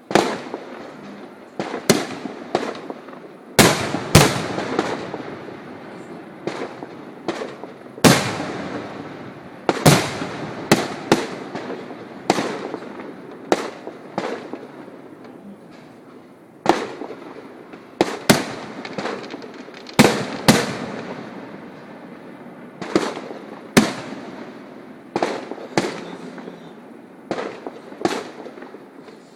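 Fireworks display: aerial shells bursting in a steady series of sharp bangs, often one to two seconds apart, each followed by a rolling echo, with crackling between them.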